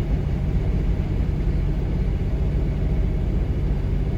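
Freight train cars, hoppers and tank cars, rolling past close by: a steady low rumble of wheels on rail.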